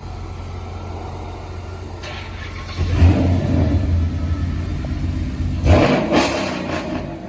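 Car engine idling with a steady low rumble, then revved about three seconds in and held up for a couple of seconds, with a second sharp rev just before the end.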